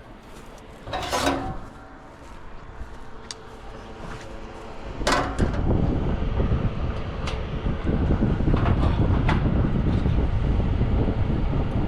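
A brief scraping clatter, then about five seconds in a knock and the newly fitted condenser fan motor starting, its air blast rushing steadily across the microphone.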